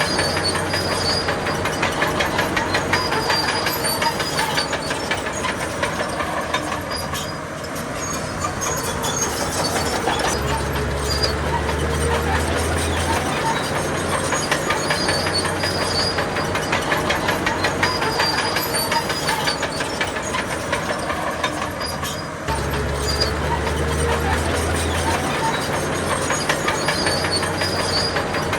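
Crawler bulldozer at work: its diesel engine runs steadily under load while its steel tracks clatter continuously. The deep engine note grows heavier for a few seconds twice, as the machine pushes.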